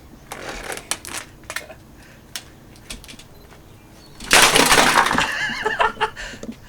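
Cheap plastic box fan being smashed: scattered knocks and rattles, then a loud crash about four seconds in. A voice cries out just after the crash.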